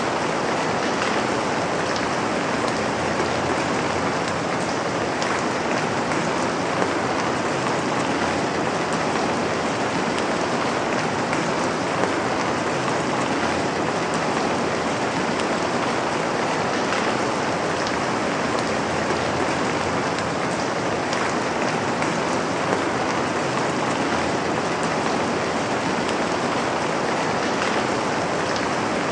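Steady rain falling and pattering on a surface, an even hiss with faint individual drop ticks.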